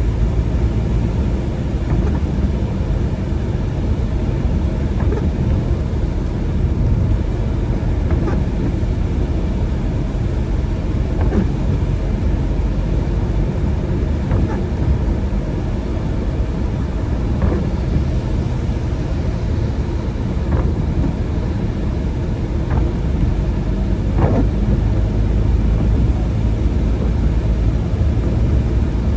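Car driving along: a steady low rumble of road and engine noise, with faint light ticks every few seconds.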